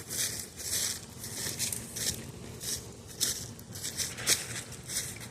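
Footsteps through dry brush and debris, a quick uneven run of about two to three steps a second.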